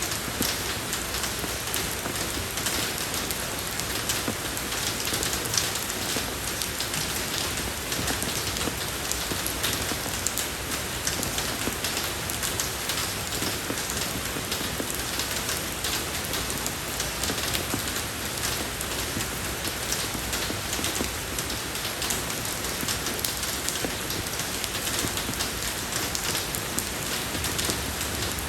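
Steady rain falling on a road surface, a dense even patter of many small drop ticks.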